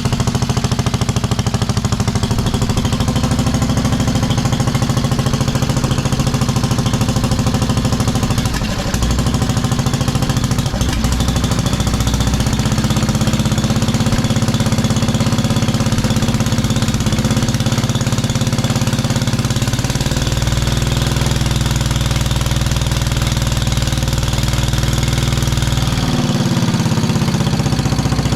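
Single-cylinder 10 hp Kohler engine of a 1973 Wheel Horse lawn tractor running steadily just after being restarted from running out of gas. It briefly stumbles about nine seconds in, and its speed shifts a couple of times near the end.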